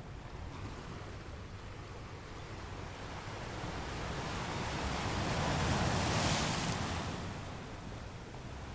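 Ocean surf: a steady wash of waves with one wave swelling to a peak about six seconds in as it breaks, then fading back.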